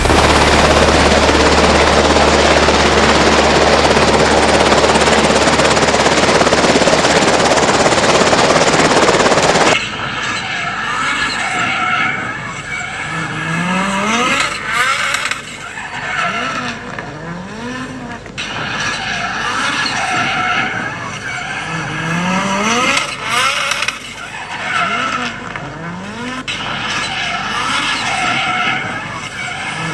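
Drift car being driven sideways, with tyres squealing. For about the first ten seconds there is a loud, dense rush of noise. After that the engine revs rise again and again, roughly every second or two, over the tyre noise.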